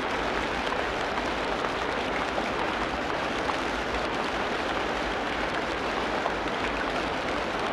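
Steady rain falling in a tropical rainforest: an even, unbroken noise of many drops that neither builds nor fades.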